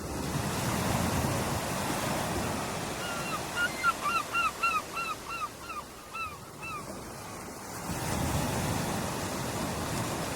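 Ocean waves washing onto a beach in a steady surf, swelling about a second in and again near the end. In the middle a bird gives a quick run of about a dozen short calls, each dropping in pitch.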